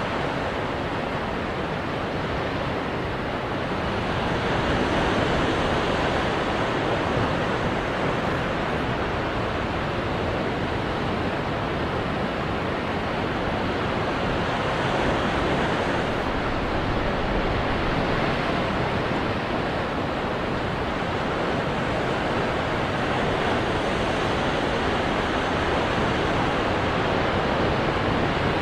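Ocean surf washing onto rocks: a continuous rushing wash that swells and eases slowly as the waves come in.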